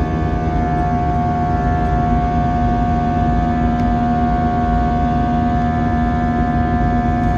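Airbus A321 jet engines heard inside the passenger cabin: a steady, loud drone of low rumble with constant humming tones over it.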